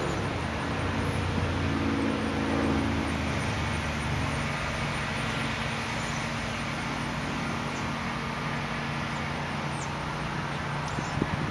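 Steady low hum of a vehicle engine running, a little louder in the first few seconds.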